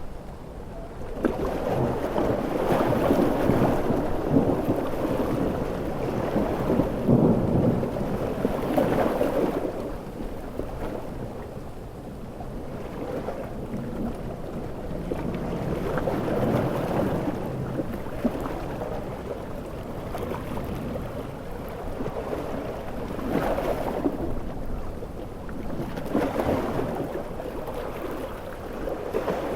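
Storm soundscape of ocean waves surging and breaking, with heavy rain and rumbling thunder, in long swells of noise. The biggest surge comes about a second in and lasts several seconds, and smaller ones follow.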